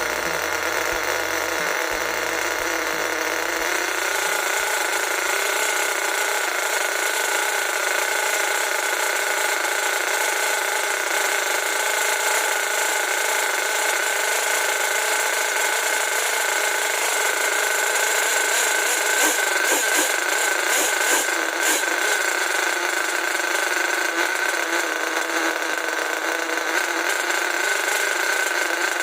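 Force .32 two-stroke nitro (glow-fuel) engine running steadily at high revs during a test run after a rebuild, with a short patch of clicks about twenty seconds in.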